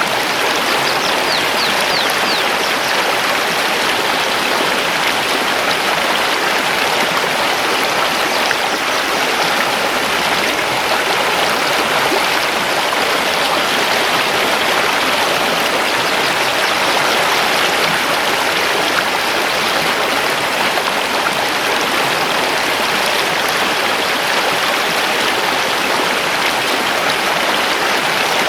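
Mountain river rushing steadily over stones, with a few faint high bird chirps about a second in.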